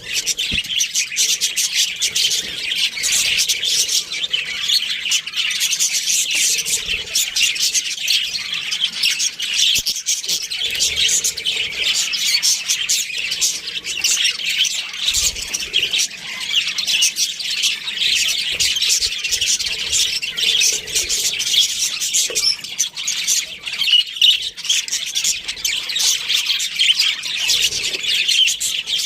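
A flock of budgerigars chattering and chirping continuously: many overlapping short, high chirps and squawks.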